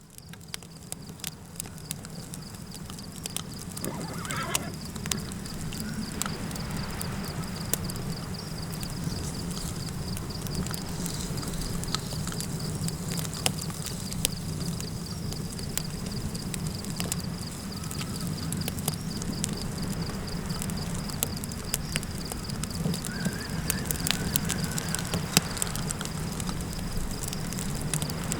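Campfire crackling with sharp pops over a steady low wind rumble and a thin, steady cricket trill, fading in over the first few seconds. A brief wavering animal call sounds about four seconds in, and another comes near the end.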